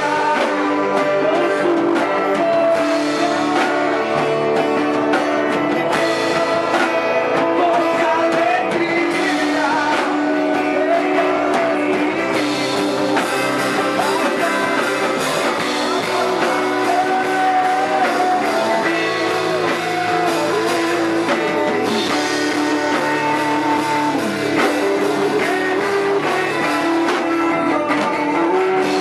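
A rock-style band playing live, guitar prominent, with singing over it.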